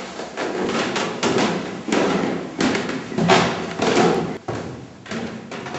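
Footsteps on a staircase: a run of irregular thumping steps, about two a second.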